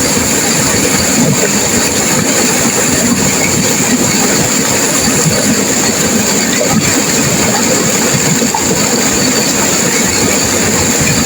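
Turbulent river water rushing and crashing, a loud, steady, unbroken churning.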